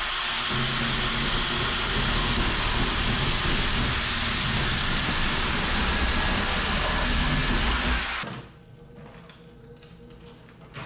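A handheld power tool's motor runs steadily at full speed with a high whine, cutting into an air-conditioner unit, then winds down about eight seconds in, the whine dropping as it stops. Quieter clatter follows.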